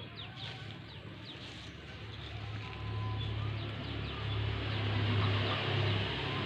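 Long-tailed shrike giving a few short, quick chirps in the first two seconds, then a loud low hum swells up and covers the rest.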